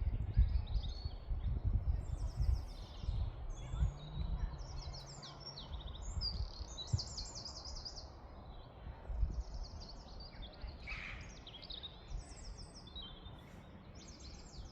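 Small songbirds singing, repeated quick trilled phrases one after another, over a low, uneven rumble that fades after the first few seconds.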